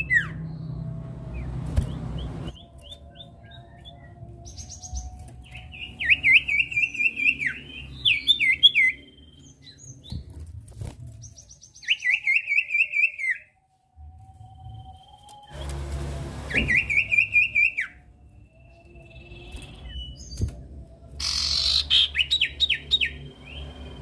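Common iora (sirtu/cipoh) singing: repeated phrases of rapid chirping notes, each about a second long, with pauses between them.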